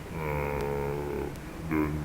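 A man's voice holding a long drawn-out hesitation sound, "uhhh", at one steady pitch for over a second.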